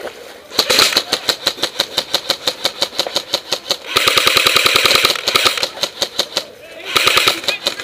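Airsoft electric guns firing in rapid full-auto bursts, a fast even clatter of shots, heaviest from about four seconds in, with a short lull near the end before another burst.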